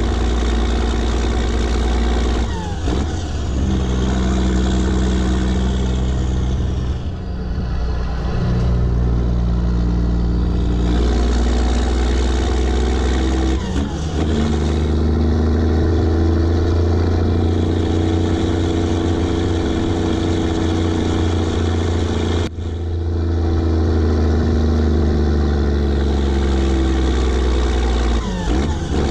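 Straight-piped Rolls-Royce diesel engine of a heavily loaded Sisu M-162 truck pulling hard, its note dropping and climbing again at several gear changes.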